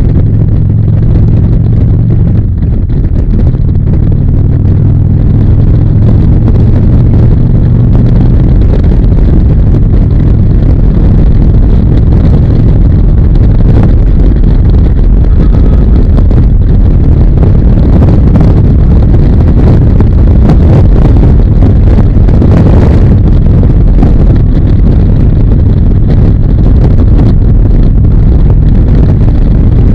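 Harley-Davidson V-twin motorcycle engine running on the road, with rushing wind on the microphone. The engine's low steady note is clearest for the first several seconds, then sinks into the wind rush.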